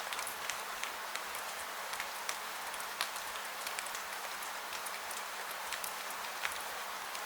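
Steady rain falling, an even hiss with scattered sharp drops ticking irregularly several times a second.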